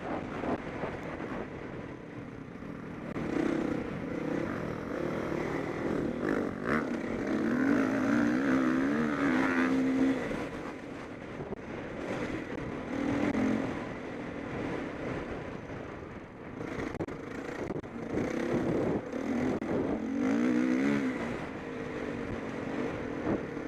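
Motocross bikes racing around the track, their engines revving up and down as they accelerate and brake past, loudest about a third of the way in and again near the end.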